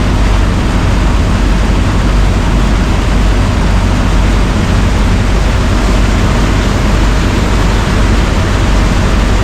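Steady rushing noise aboard a river boat underway: wind over the microphone mixed with the low drone of the boat's engine and its movement through the water.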